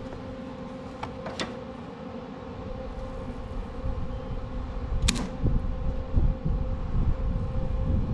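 Steady hum of a running machine, with sharp clicks about a second in and again about five seconds in. A low rumbling noise builds toward the end.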